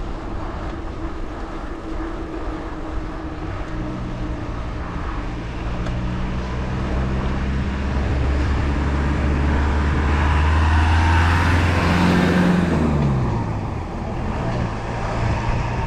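A motor vehicle comes up and passes. Its engine hum builds for several seconds, peaks with tyre hiss about two thirds of the way in, then drops in pitch as it goes by, over the steady rush of riding.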